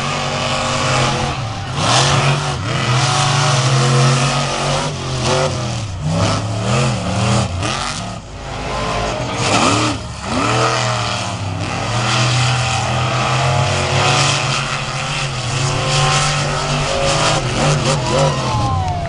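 Monster truck engine running loud and revving hard, its pitch rising and falling several times as the throttle is worked.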